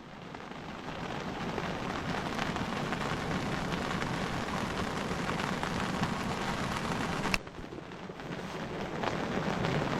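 Steady rain falling, an even hiss of drops. It breaks off with a click about seven seconds in, then builds back up.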